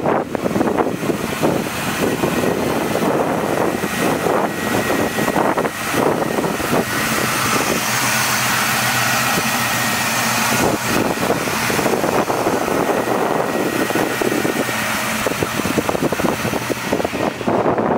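A 1979 Pontiac Trans Am's 6.6-litre V8 idling steadily with the hood open.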